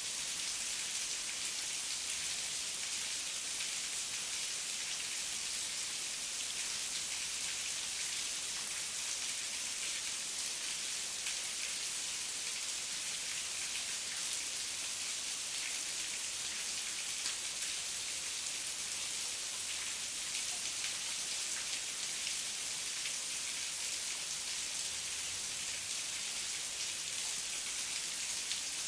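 Steady heavy rain falling, an even hiss of many fine drop ticks with no letup.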